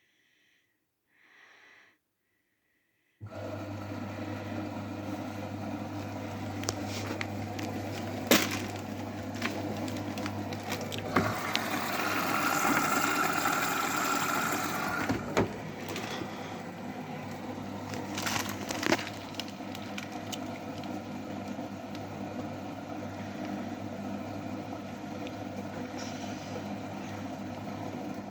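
AEG washing machine running: a steady motor hum that starts suddenly about three seconds in, with a few sharp knocks from the turning drum and a louder hissing stretch partway through.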